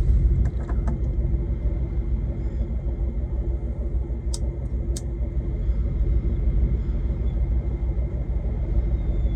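Truck's diesel engine running with a steady low rumble, heard inside the cab. Two sharp clicks about half a second apart near the middle.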